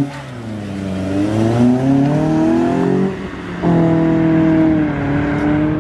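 Car engine accelerating away under load: the revs climb steadily, drop at a gear change about three seconds in, then hold steady at a higher note.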